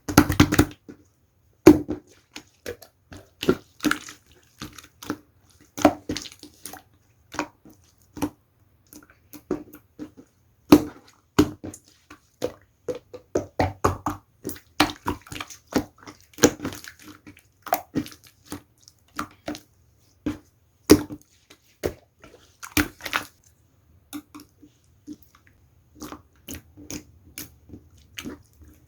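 Hands squishing, pressing and stretching slime, making irregular wet, sticky clicks and pops, sometimes several a second, with brief pauses between handfuls.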